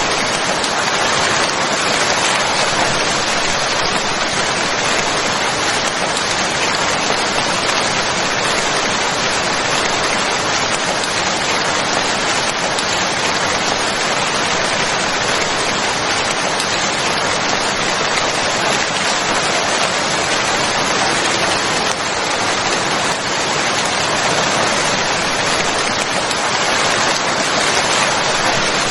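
Steady rainfall: a dense, even hiss of rain pattering on a surface, without pauses or changes.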